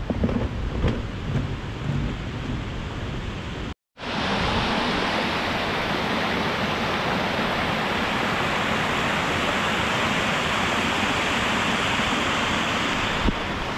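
Uneven, gusty noise for the first few seconds, then after a short break a steady rush of water from a mountain valley stream.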